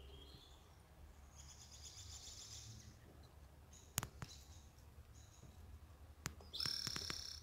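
Faint bird chirps and calls in short bouts, with a couple of sharp clicks: one about four seconds in, a second about six seconds in.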